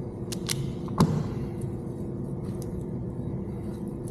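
A few short, sharp clicks and one louder snap about a second in, from cutting and handling plastic wiring-harness parts, over a steady background hum.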